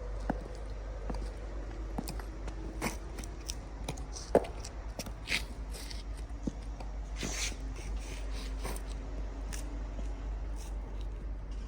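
High-heeled platform boots with lug soles stepping and scraping over a gritty, dirt-covered concrete floor: irregular clicks of the heels and crunching scuffs of grit under the soles, one sharper knock about four seconds in, over a steady low hum.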